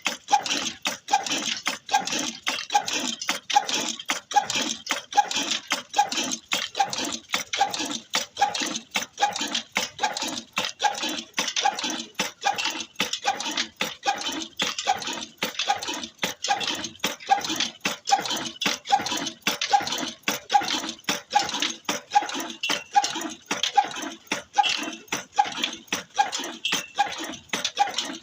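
Old Ruston engine running steadily, with a regular beat about twice a second and fast clicking between the beats.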